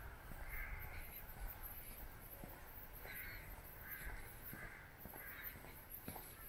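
A bird calling several times in short, separate calls, with faint steps and a low rumble underneath.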